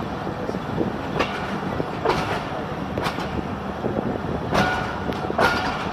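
Passenger train coaches rolling through a station, wheels clacking over rail joints about once a second over a steady rumble.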